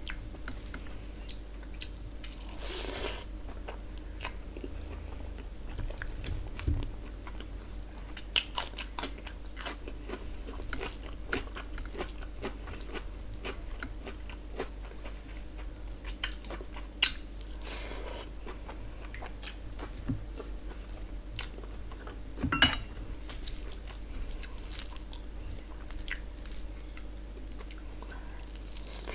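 Close-up eating of rice and curry by hand: chewing and biting with wet mouth sounds, and fingers squishing rice, with scattered sharp clicks, the loudest about 22 seconds in. A low steady hum runs underneath.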